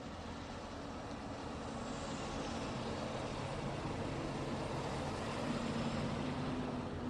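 Road traffic: a steady rush of passing vehicles with a low engine hum, swelling gradually as one vehicle draws near and passes about five to six seconds in.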